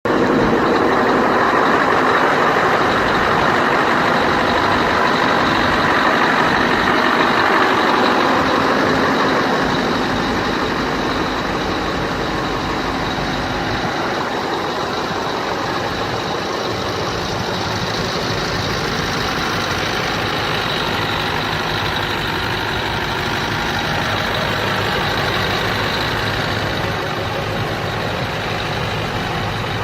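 Scania R500 truck engine running at idle, a steady mechanical drone with a constant high whine; it is a little louder for the first ten seconds or so, then settles slightly quieter.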